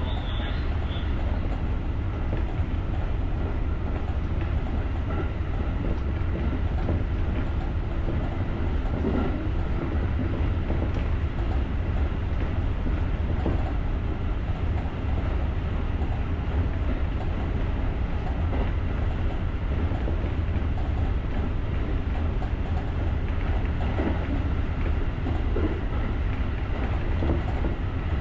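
JR rapid electric commuter train running along the line, heard from inside the driver's cab: a steady low rumble of wheels on rail with faint motor hum.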